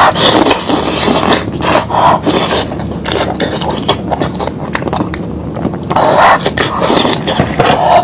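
Eating sounds of lamb meat being chewed and pulled from the bone, with scraping and rubbing noises in irregular bursts.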